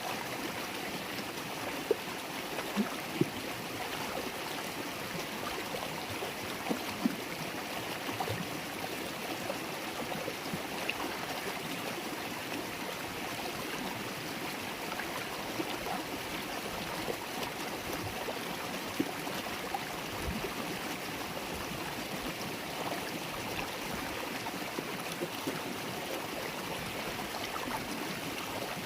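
River water babbling and gurgling steadily over stones, with small splashes scattered throughout.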